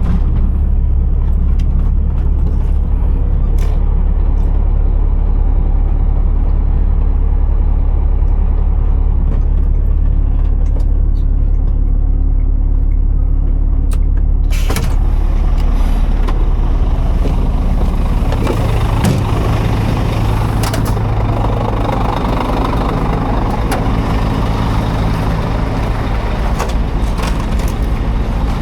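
Scania R480 heavy truck's diesel engine running steadily with a deep low note. About halfway through there is a single sharp click, and a few seconds later the engine note shifts as the engine speed changes.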